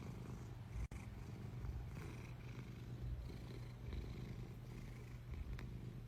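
Domestic cat purring steadily, a low, fine rhythmic rumble, with a brief break about a second in.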